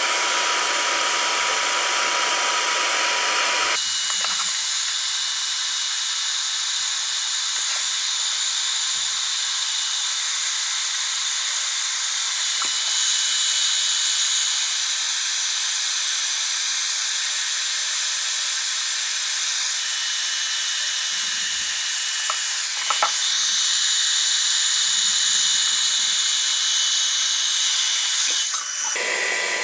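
Hot-air plastic welding gun blowing with a steady hiss as polypropylene filler electrodes are melted. About four seconds in, the sound thins to a higher hiss with a faint whistle, and it returns to the fuller blow near the end, with a few light knocks in between.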